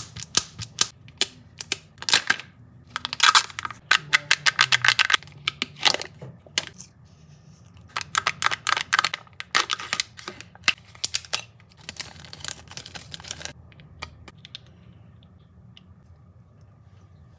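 Kinder Joy egg packaging being unwrapped and opened: foil wrapper crinkling and plastic shell clicking and crackling in clusters of sharp clicks, which die away after about fourteen seconds.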